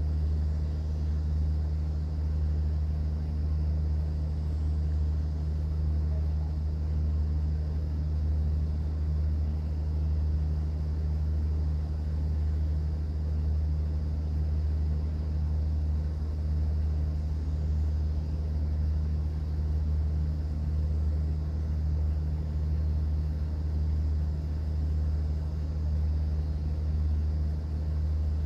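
Cruise boat's engine running with a steady low drone, over a faint even hiss of water and air.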